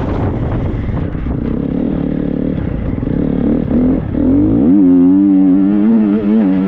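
Triumph 250 four-stroke motocross bike engine running while ridden over rough ground, with rattling. About two-thirds of the way in the revs climb and hold high, the pitch wavering up and down as the throttle is worked.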